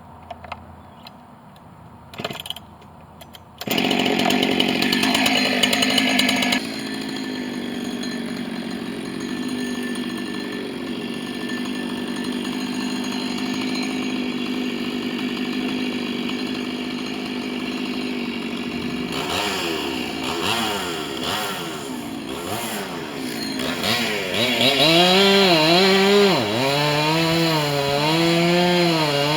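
Husqvarna 268 two-stroke chainsaw being started: a couple of short knocks, then the engine catches about four seconds in and runs at high revs for a few seconds before settling to a steady idle. From about two-thirds of the way through it is revved up and down over and over, the pitch rising and falling.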